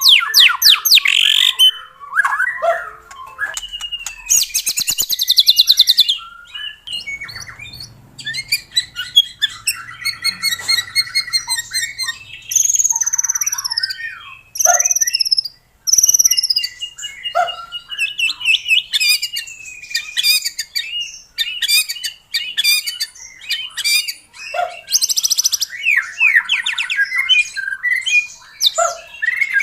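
White-rumped shama (murai batu) in full song: a long, varied run of loud whistles, fast stuttering trills and harsh rattling notes, with a few clear falling whistles about halfway through.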